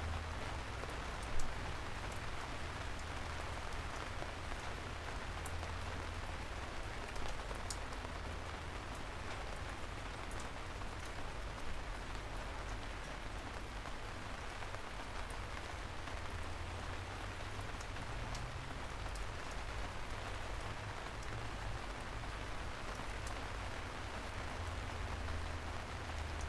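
Steady rain falling, an even hiss with a deep low rumble underneath and scattered sharp drop ticks.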